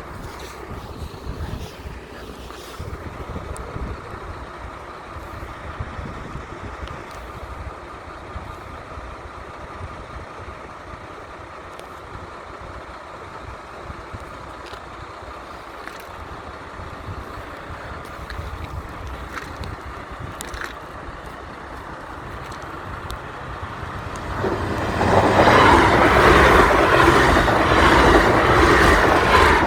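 Five-carriage diesel passenger train: a low rumble with wind on the microphone, then the train passes loudly for about five seconds near the end before the noise drops away.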